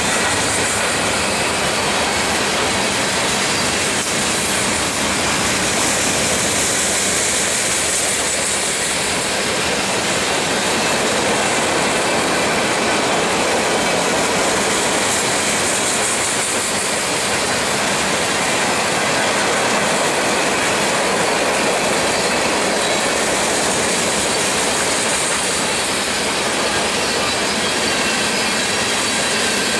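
Norfolk Southern manifest freight train's cars (tank cars, gondolas, boxcars) rolling past on steel rails: a loud, steady rolling rattle of wheels over the track, with no locomotive heard.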